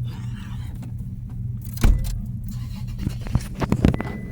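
Car engine idling with a steady low hum, a loud thump a little under two seconds in, and a quick run of clicks and knocks near the end.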